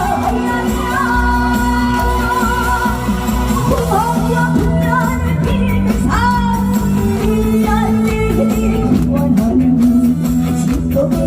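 A woman singing a Korean trot song over a band accompaniment, with vibrato on her held notes.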